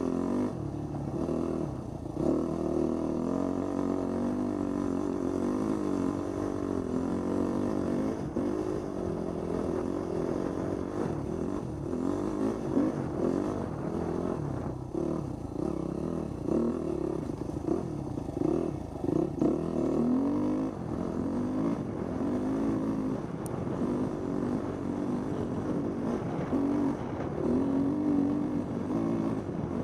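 Husqvarna 250 dirt bike engine running under changing throttle, its pitch rising and falling continually.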